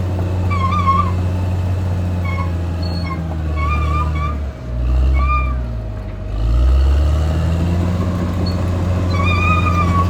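Caterpillar D6R XL bulldozer's diesel engine running, its note dropping for about two seconds midway and then climbing back. Short high-pitched squeaks come again and again over the engine.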